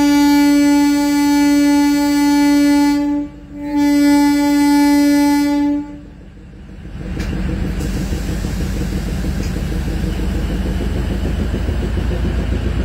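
Train horn sounding one long steady blast that breaks off about three seconds in, then a second blast of about two seconds. From about seven seconds in, the low, even rumble of the train running on the rails.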